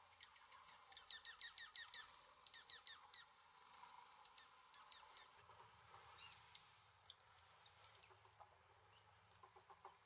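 A songbird calling in two quick runs of rapid, high notes that each sweep downward, about eight in the first run and five in the second, followed by a few scattered short chips.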